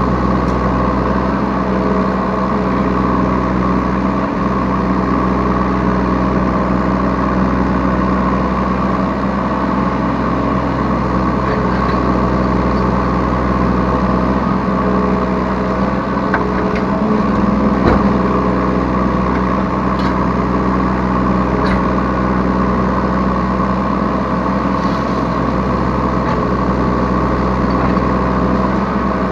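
Yanmar B3 Sigma 3-tonne mini excavator's diesel engine running steadily while the machine digs and loads, heard from the operator's seat. A few short knocks come through, and the engine note rises briefly about two thirds of the way in.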